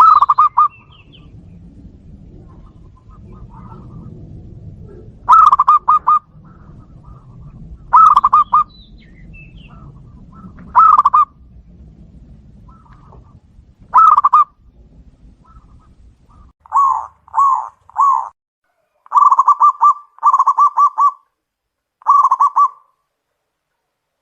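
Zebra doves (perkutut) cooing back and forth: short bursts of rapid staccato coos repeated every few seconds. A low background hum stops about two-thirds of the way through, and after that the phrases come shorter and closer together.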